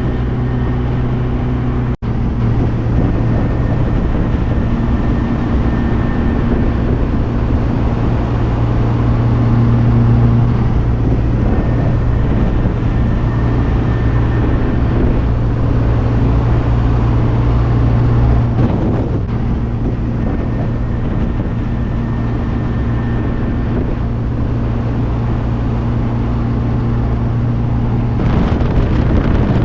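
Small classic MG Midget sports car driving at a steady cruise: an even engine drone mixed with road and wind noise, with a brief dropout about two seconds in.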